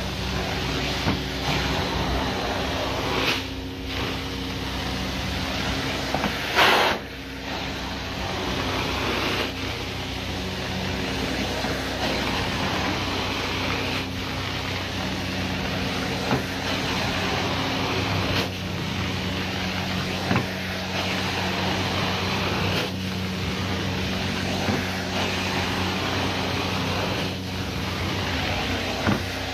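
Carpet-cleaning extraction machine running with a steady hum under the suction hiss of the cleaning wand, which swells and eases as the wand is worked. There are a few short knocks, the loudest about seven seconds in.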